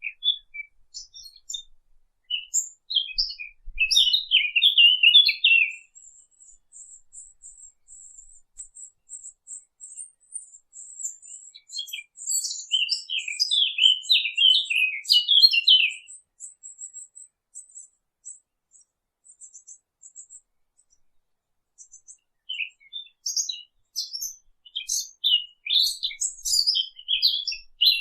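Songbirds singing: three bursts of rapid, varied chirping, each a few seconds long, with a thin, very high trill running between them.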